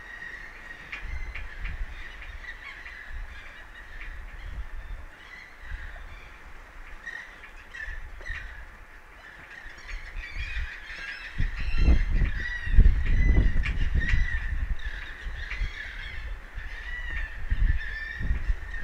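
Many birds calling over one another in quick short calls, with wind buffeting the microphone in low gusts that are strongest about twelve to fourteen seconds in.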